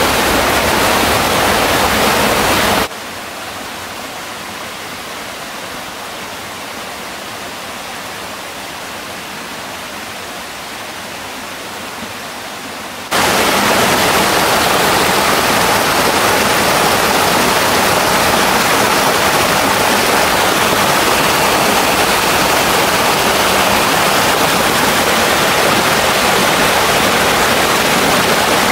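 Waterfall and stream water rushing steadily. About three seconds in it suddenly drops to a quieter, duller rush, and about ten seconds later it is abruptly loud again.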